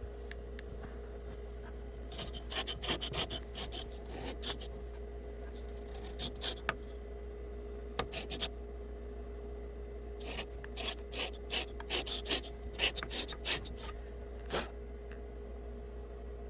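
Willard's tip trimmer cutting the old leather tip off a pool cue shaft: the blade scrapes and rasps in irregular bursts of short strokes as the shaft is turned, with a couple of sharp clicks, squaring the end down toward the pad. A faint steady hum runs underneath.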